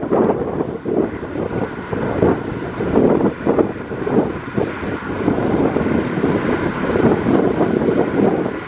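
Heavy earthmoving machinery at work: a diesel engine running hard under load, with its loudness rising and falling unevenly.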